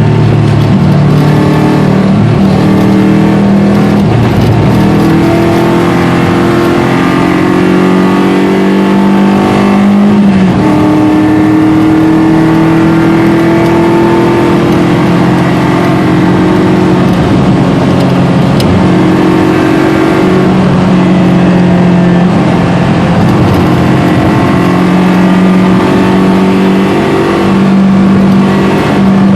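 Subaru Impreza RS rally car's flat-four engine running hard, its pitch repeatedly climbing and dropping as it revs through the gears.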